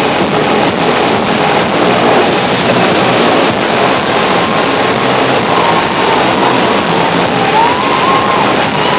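Motorcycle engines running hard and continuously inside a globe of death, loud and dense. A wavering higher tone comes in a little past the middle.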